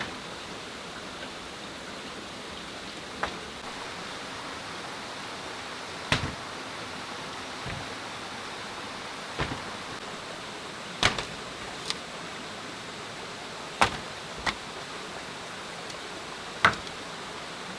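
Sharp single knocks, about every two to three seconds and a few in quick pairs, over a steady rushing hiss.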